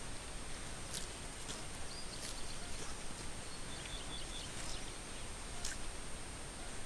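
Steady hiss with a thin high whine, a few scattered sharp clicks, and faint short high chirps twice in the middle.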